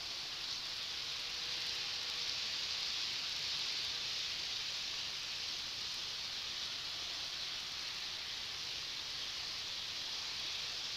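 Model railway train running on its track, a steady hiss of wheels and motor that swells slightly a couple of seconds in.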